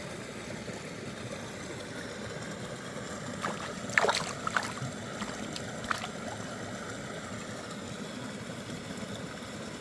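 Small mountain creek flowing steadily over rocks, with a few short sharp sounds about four to six seconds in.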